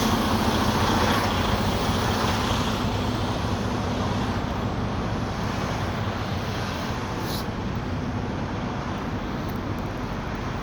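Steady low rumble of idling truck engines that slowly grows quieter, with a brief faint click about seven seconds in.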